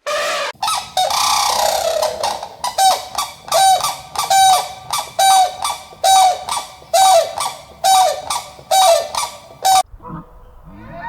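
An animal calling loudly: a longer, rough call at the start, then a run of about nine short calls roughly one a second, each dropping in pitch, stopping abruptly near the end.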